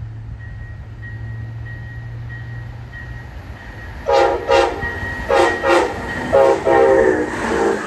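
Diesel locomotive air horn sounding a series of blasts, two short pairs and then longer ones, over the low rumble of the approaching train. A faint regular ping, like a grade-crossing bell, runs under the rumble before the horn.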